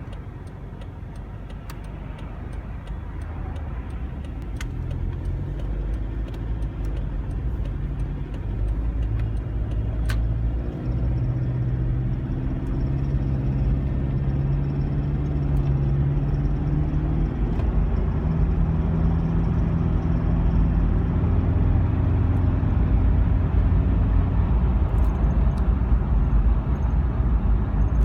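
Toyota Land Cruiser 120's 3.0 D-4D four-cylinder turbodiesel running, growing louder over the first half. The owner calls the knock it makes at 1500–2500 rpm terribly unpleasant and suspects the injectors.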